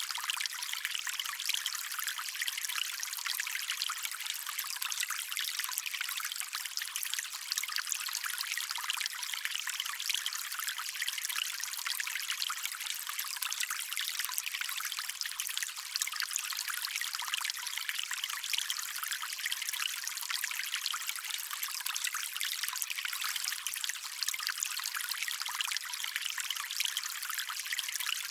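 Stream water trickling and running over stones, a steady, high, hissing babble with no deep rumble.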